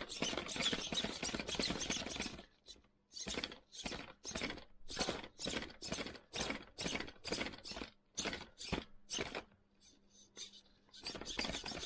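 Reef's RAW 500 RC servo driven back and forth on a bench tester: a long buzzing sweep, then a run of short buzzing strokes about two to three a second, then a quick cluster near the end. The gear train runs smoothly after its rebuild.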